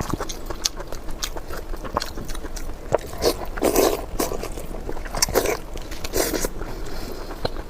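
Close-miked eating: a run of bites and chewing, with many small clicks and several louder bursts of chewing in the middle.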